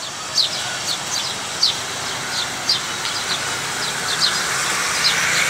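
Small birds chirping, each call a short quick falling note, about two a second, over a steady background hiss.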